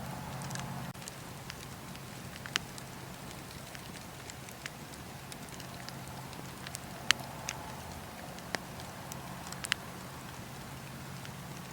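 Wood fire burning in a fireplace, with scattered sharp crackles and pops over a steady low hiss and hum.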